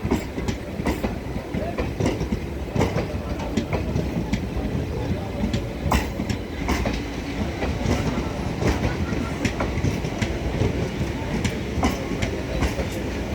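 Indian Railways express passenger train running on the track: a steady rumble with irregular clicks and knocks of the wheels over the rails.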